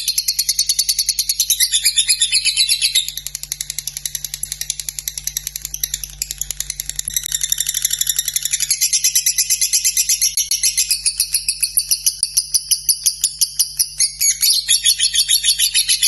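Lovebird singing a long, unbroken, rapid chattering trill of high notes, the 'ngekek' style of lovebird song.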